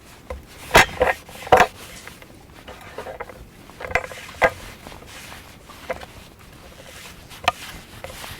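Handling noises: a string of sharp knocks and clatters with short scraping rustles between them, the loudest cluster about a second in and a last single knock near the end.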